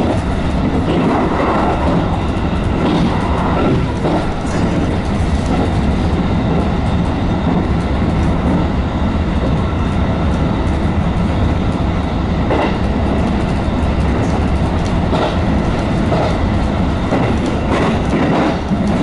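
JR West 221 series electric train running at speed, heard from inside the front car: a steady rumble of wheels on rail with scattered clicks as the wheels pass over rail joints and points.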